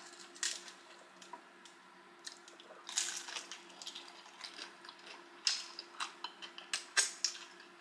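Close-up mouth sounds of eating a crispy fried egg roll: crunching, chewing and wet smacks, heard as scattered short crackles and clicks.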